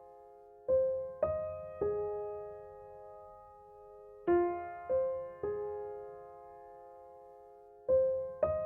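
Slow background piano music: notes struck in groups of three about half a second apart, each left to ring and fade, a new group every three and a half seconds or so.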